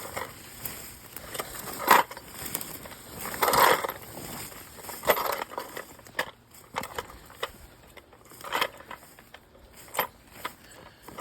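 Footsteps crunching through undergrowth on a woodland trail, in irregular loud steps with smaller snaps and rustles between, quieter after about the middle.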